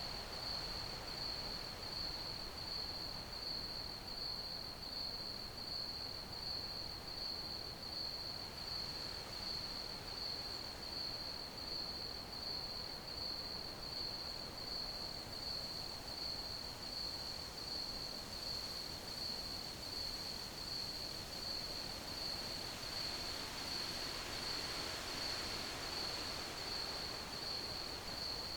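Crickets chirping in a steady, fast pulsing trill at one high pitch, over a faint background hiss.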